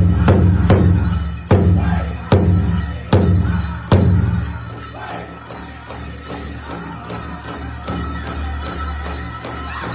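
Powwow drum struck in a steady beat, about one stroke a second, with hard, loud beats through the first four seconds before the strokes drop back to a softer pulse. Metal jingles shimmer over the drumming.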